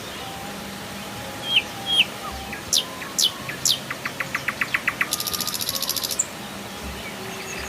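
Several forest birds calling over a steady hiss of flowing river water. About a second and a half in come two short notes, then a few high falling whistles. Near the middle there is a quick run of about eight notes, followed by a high, rapid pulsing buzz lasting about a second.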